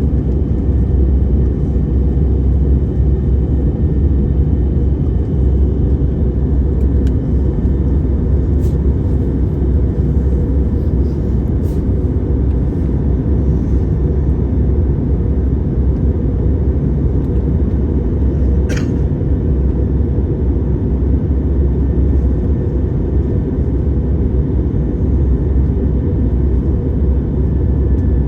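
Steady low rumble of an airliner in flight, heard from inside the cabin: engine and airflow noise that does not change, with a faint click about nineteen seconds in.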